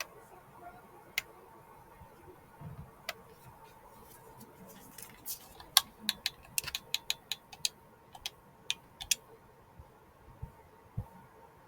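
A series of irregular sharp clicks and taps, a few at first and then a quick flurry in the middle, over a faint steady hum.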